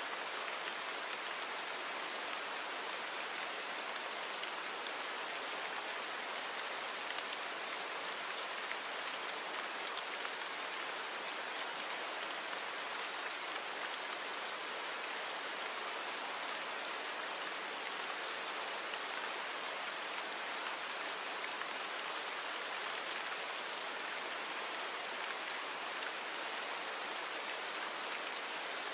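Steady rain falling, an even hiss of many small drops with faint scattered patters and no change in intensity.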